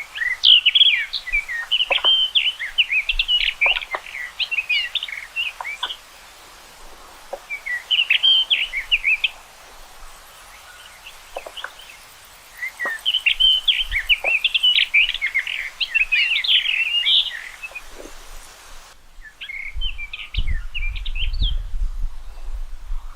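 Common rock thrush singing: four phrases of fast, varied warbling notes separated by short pauses. A low rumble comes in near the end.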